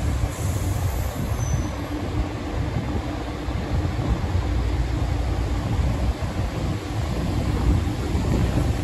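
Electric commuter train running slowly, a steady low rumble with a faint even hum over it.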